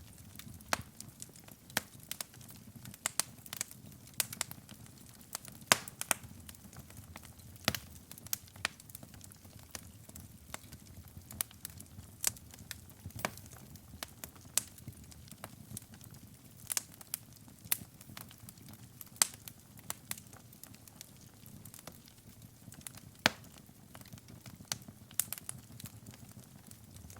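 Wood fire burning in a fireplace: irregular sharp crackles and pops, several a second, over a soft low rumble of the flames.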